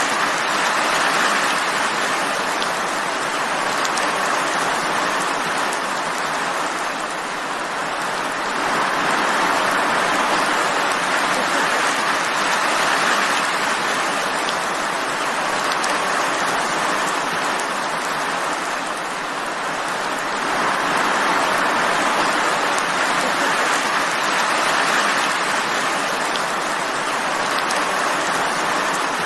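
Steady heavy rain, a dense hiss of countless drops that swells and eases slowly every several seconds.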